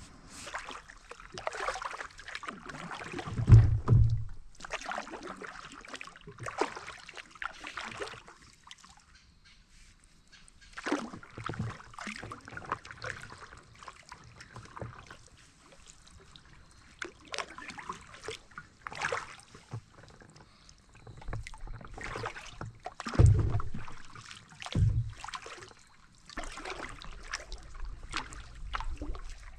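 Paddle strokes in river water, a swish and slosh every second or two, with a few heavy low thumps, the loudest near the start and twice near the end.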